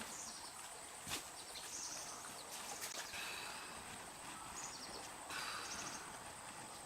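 Faint rural outdoor ambience: short high bird chirps a few times over a steady hiss, with a single sharp knock about a second in.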